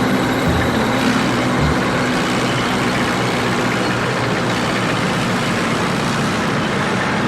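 A loud, steady engine-like vehicle noise.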